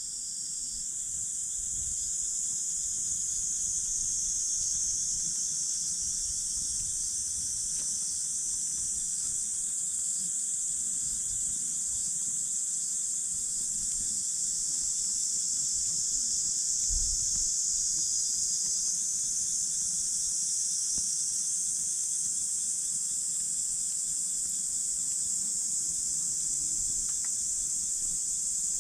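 Insects trilling steadily at a high pitch over a wood campfire, with a few faint crackles and a low rumble underneath.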